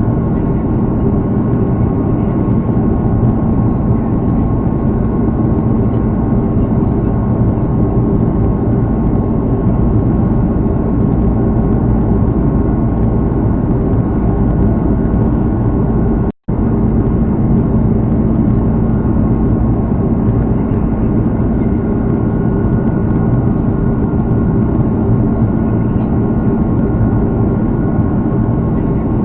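Airbus A330's Rolls-Royce Trent 700 turbofan engines running steadily, heard from inside the passenger cabin: an even, dense rush with several steady humming tones over it. The sound cuts out completely for an instant about sixteen seconds in.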